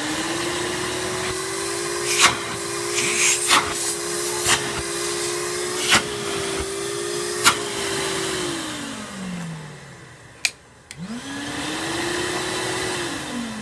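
Twin-motor industrial wet vacuum running steadily with the hum of its two motors, and a few sharp clicks along the way. It is switched off about eight seconds in and winds down with falling pitch. Near the end it is switched on again, spins up, and winds down once more. It runs smoothly, the best of the batch.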